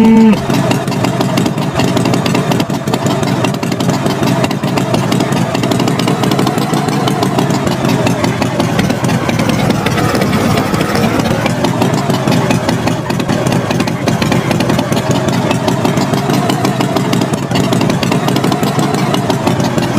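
Tractor engine running steadily, its pitch rising and falling slowly.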